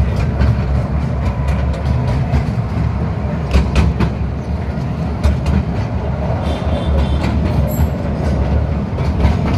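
Train running on its track: a steady low rumble of the wheels, with irregular sharp clicks and clatter from the rails.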